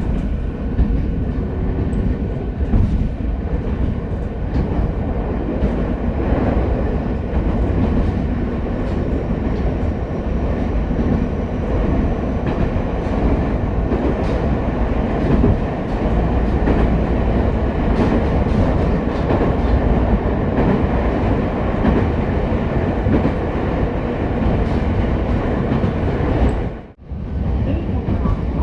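Ichibata Electric Railway 7000 series train running, heard from inside the car: a steady rumble of wheels on rail with scattered clicks over rail joints. Near the end the sound drops out sharply for a moment.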